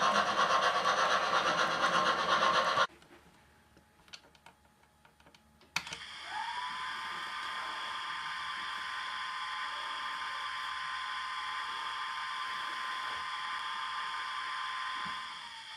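Sound from a model locomotive on an OO gauge layout: a loud, rough rushing noise cuts off abruptly about three seconds in. After a few seconds of near silence with faint clicks comes a click, then a whine that rises and holds steady.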